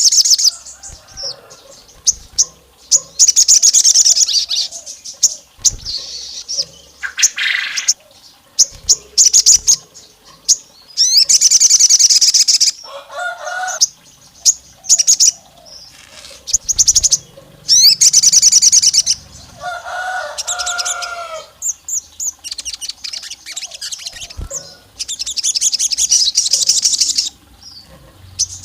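Sogon (crimson sunbird) singing: loud, very fast, high-pitched trills about a second long, repeated many times with short gaps, mixed with a few lower, harsher calls. This is the sogon's full, aggressive song.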